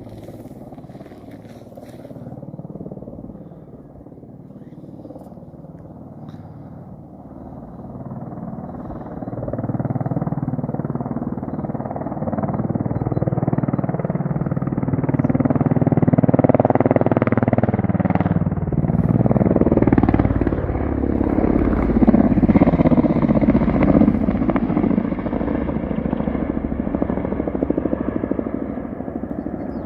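Military attack helicopter flying past low, its engine and rotor drone growing louder over about fifteen seconds and then easing off, the pitch of the drone shifting as it passes.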